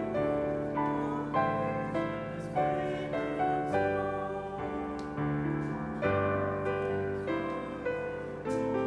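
Solo piano playing a slow, gentle piece, chords struck about once a second and left to ring.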